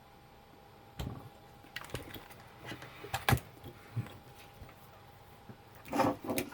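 Parts of an old label machine being handled and taken apart by hand. Scattered light clicks and knocks of plastic and metal pieces come at irregular intervals, the sharpest about three seconds in and a busier cluster near the end.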